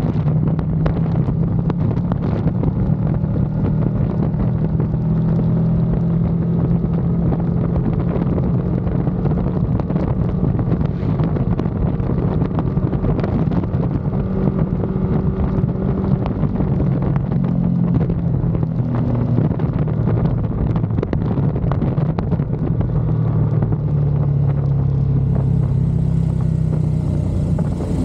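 Ducati Panigale V2's V-twin engine running at fairly steady revs over a rush of wind noise, with small shifts in pitch and no big revving sweeps.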